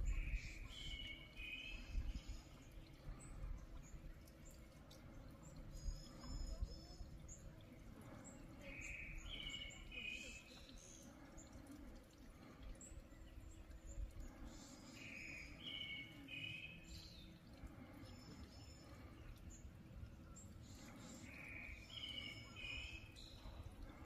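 Birds singing outdoors: one bird repeats a short, doubled phrase four times, about every six to seven seconds, while higher short notes from another bird fall in between. Under them is a low wind rumble.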